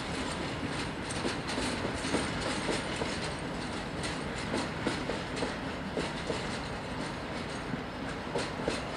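Freight train wagons rolling past on the rails, with a steady rumble and irregular clicks and knocks from the wheels over the rail joints.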